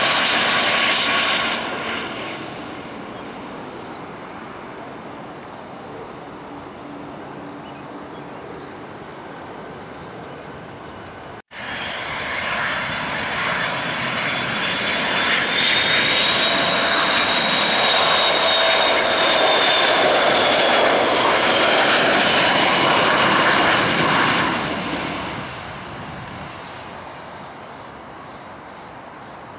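Jet airliner engines passing: one fades away in the first couple of seconds, then after an abrupt cut about eleven seconds in, another jet airliner builds to a loud pass with a high whine over its engine noise and fades off near the end.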